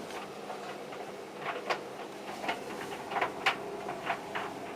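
Tumble dryers running: a steady motor hum with irregular clicks and knocks as loads of jeans tumble in the drums.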